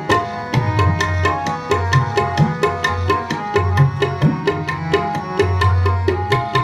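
Tabla playing a fast, steady stroke pattern of about six or seven strokes a second between sung lines of kirtan. The low bass drum's notes bend in pitch, over sustained melodic notes.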